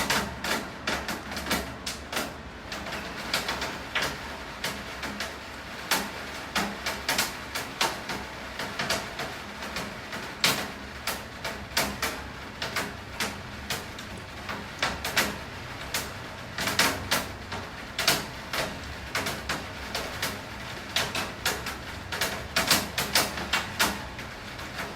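Steady rain, with large drops striking a hard surface close to the microphone in irregular sharp taps, several a second.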